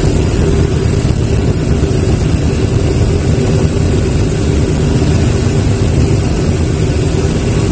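Aircraft engine running steadily: a loud, even drone with a low hum underneath, that starts abruptly just before and holds without change.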